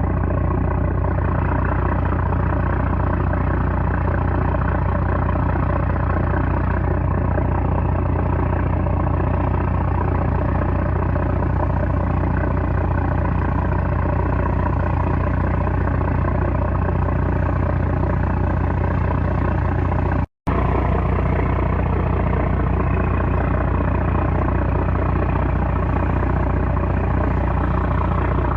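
The 330-horsepower trawler's diesel engine running steadily with a heavy low hum. The sound cuts out for a split second about two-thirds of the way through, then carries on unchanged.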